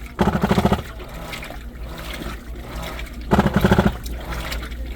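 New washing machine mid-wash making a harsh buzzing rattle that lasts about half a second, coming three times (just after the start, about three seconds in, and at the end), over a steady low hum and water sloshing. The owner calls it a stuck noise, a sign that something in the machine is catching as the drum turns.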